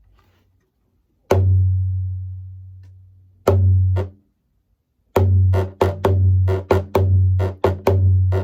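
A drum struck once and left ringing with a deep tone for about two seconds, struck again two seconds later, then settling into a steady beat of about three strikes a second: the drum opening of a round dance song.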